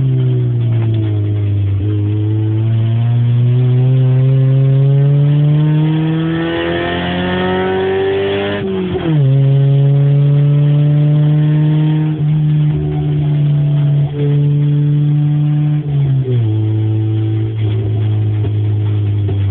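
Fifth-generation Honda Civic engine running with no exhaust fitted, loud and raw. Its pitch climbs steadily for several seconds, falls sharply about nine seconds in, holds steady, then falls again near sixteen seconds.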